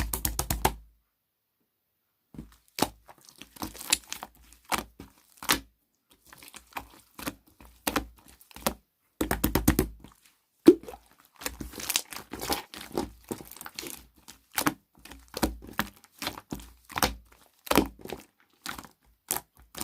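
Slime being squeezed and kneaded by hand, making bursts of quick clicks and pops from trapped air, with short pauses between handfuls.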